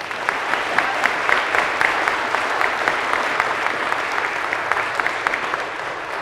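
Audience applauding: many hands clapping together, starting abruptly and holding steady, easing slightly toward the end.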